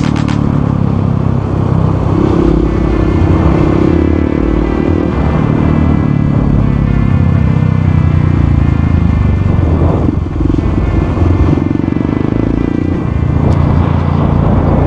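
Motorcycle engine running under way, its pitch rising and falling several times with throttle and gear changes.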